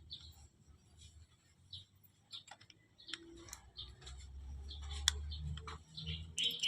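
Scattered light clicks and taps of tools and parts being handled during a manual transmission overhaul, with a sharper click about five seconds in and a low rumble under the second half. Birds chirp faintly near the end.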